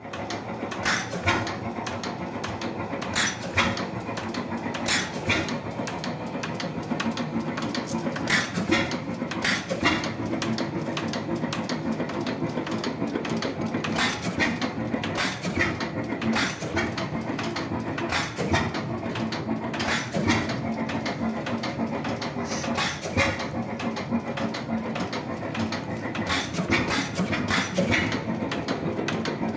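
Tangye 5 hp portable oil engine running, a steady clatter broken by sharp cracks at uneven intervals, roughly one or two a second.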